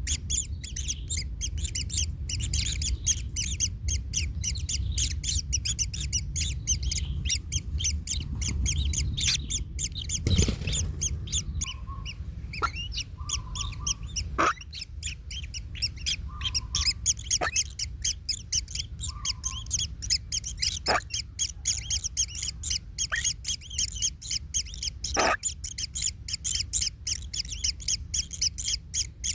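Kingfisher nestlings chirping non-stop in rapid high-pitched calls over a low rumble. A sharp knock comes about ten seconds in, with a few fainter clicks after it.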